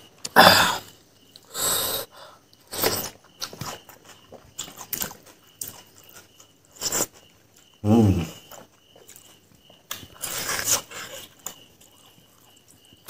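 Close-up mouth noises of a person eating fried pork and rice by hand: wet chewing and lip-smacking in irregular bursts, with a short voiced hum-like sound about eight seconds in.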